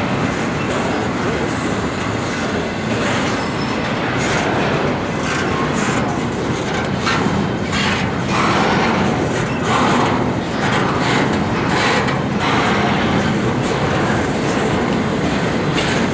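Intermodal freight train rolling past, its cars' wheels clicking over the rail joints in a steady rush of rail noise.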